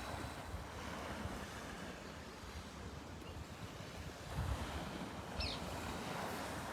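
Outdoor wind rushing over the microphone, a steady noise with gusty low rumbles, and one short high chirp about five seconds in.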